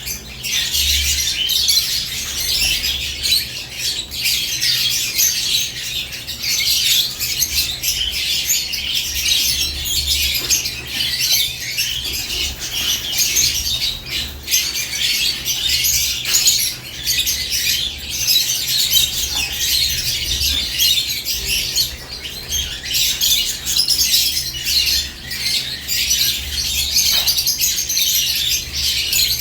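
A flock of caged lovebirds chirping and squawking nonstop, with many overlapping high-pitched calls, plus scattered clicks and wing flutters. A low steady hum runs underneath.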